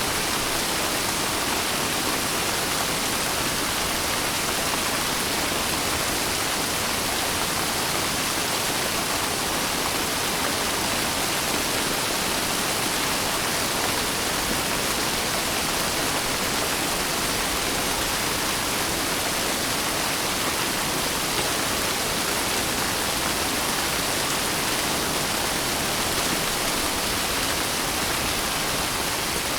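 Rain falling steadily, an even, unbroken hiss with no distinct drops or thunder standing out.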